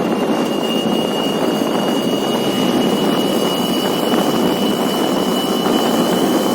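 Two-stroke Yamaha Alfa motorcycle engine running steadily through its exhaust, fitted with a replaced silencer insert. A thin, steady high tone runs over the exhaust note.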